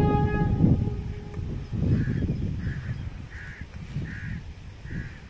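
A Vande Bharat train's horn cuts off about half a second in, and the low rumble of the passing train dies away. In the second half a crow caws five times, a short call about every three-quarters of a second.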